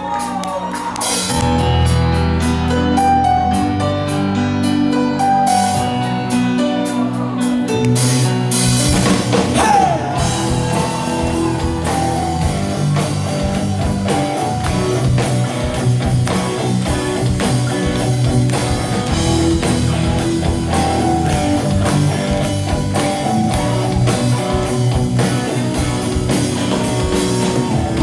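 Rock band playing a song's instrumental intro live: electric guitar over a steady drum kit beat, with no singing yet.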